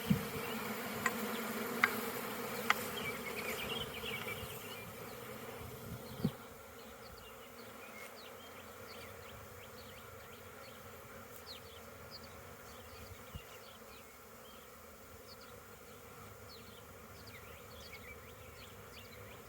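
Honeybees buzzing around an opened hive while a frame is shaken off, with a few sharp knocks in the first three seconds and a thud about six seconds in. After that the buzzing settles quieter and steady.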